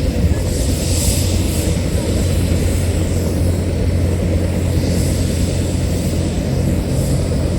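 Military helicopter running close by: a loud, steady low drone of rotor and turbine with a hiss over it.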